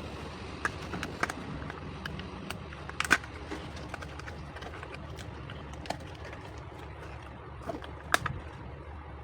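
Scattered sharp clicks and taps, loudest about three seconds in and again about eight seconds in, over a steady low rumble.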